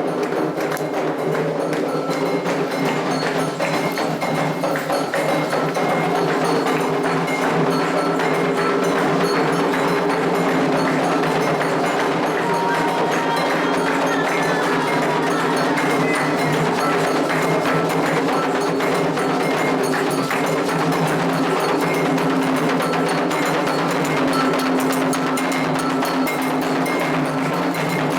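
Candomblé ritual music: continuous fast drumming with a struck bell pattern over it, steady throughout.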